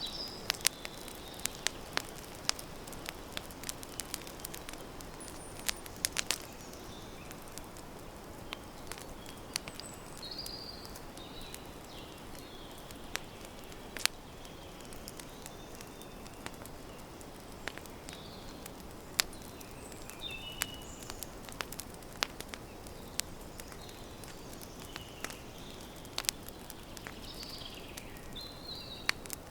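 Wood campfire crackling, with irregular sharp pops and snaps over a steady hiss. Birds chirp briefly now and then in the background.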